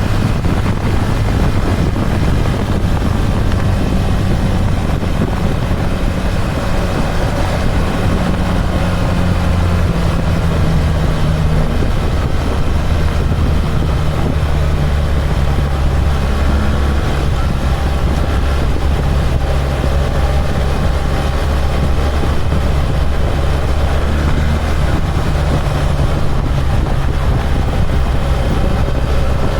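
BMW R1300 GS boxer-twin motorcycle engine running steadily on the move, with wind noise. About ten seconds in the engine note drops to a lower pitch and holds there.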